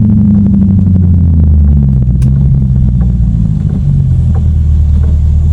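Lexus car engine running while driving, a steady low drone whose note drops about two seconds in.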